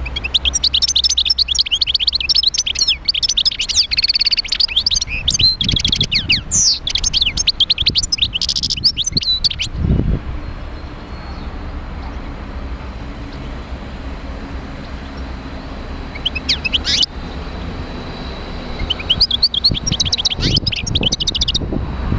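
European goldfinch singing: a long, fast run of twittering, tinkling notes for about ten seconds, a brief phrase later, then another twittering run near the end. A steady low rumble runs underneath.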